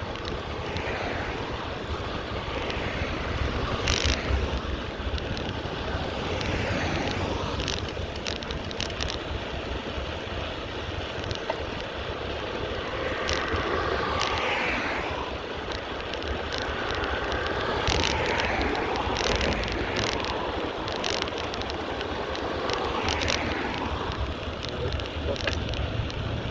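Street ambience heard from a moving bicycle: a steady low rumble of wind and traffic, with vehicles passing that swell and fade several times, and scattered small clicks and rattles.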